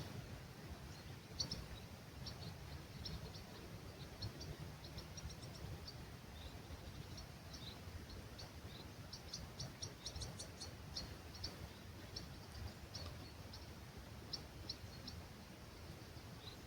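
Small birds chirping and twittering at dawn, with many short high calls throughout and a busier run in the middle. Under them is a faint low rumble of breeze.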